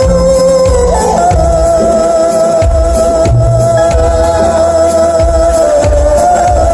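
Live band playing a rock song on bluegrass-style instruments, a mostly instrumental stretch: a held lead note bends up to a higher pitch about a second in and is sustained, over a steady cymbal beat and pulsing bass.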